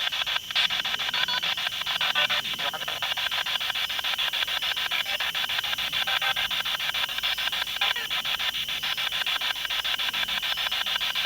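Spirit box scanning through radio frequencies, a continuous fast choppy rasp of static from its small speaker with brief fragments flicking past.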